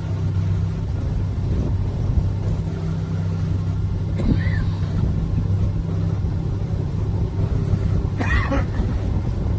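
Canal tour boat's motor running steadily, a low even hum.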